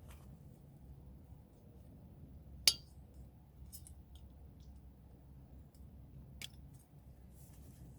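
A few sharp clicks and clinks of small hard objects being handled, the loudest a little under three seconds in and another about six and a half seconds in, over a low steady rumble.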